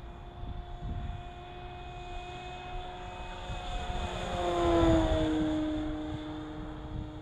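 Electric motor and propeller of an E-flite Carbon-Z Cessna 150 RC plane making a pass: a steady whine that grows louder, peaks about five seconds in, and drops in pitch as the plane goes by.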